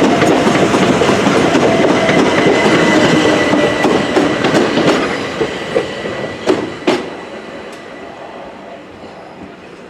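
Class 377 Electrostar electric multiple unit pulling into the platform and slowing. Its motor whine sinks slowly in pitch over the rumble of the wheels, with a few sharp clicks about five to seven seconds in, and the noise dies down as the train slows to a halt.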